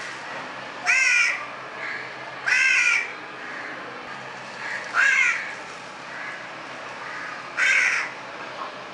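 Fledgling house crow calling for its parents: four loud, harsh caws about two to three seconds apart, each rising then falling in pitch, with fainter calls in between.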